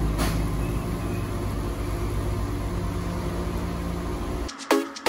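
2005 Volvo S60 T5's turbocharged five-cylinder engine running steadily. About four and a half seconds in it cuts off and music with sharp struck notes, about three a second, begins.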